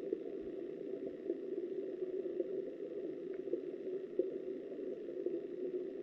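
River water flowing, heard through an underwater camera: a steady, muffled rush with faint scattered ticks.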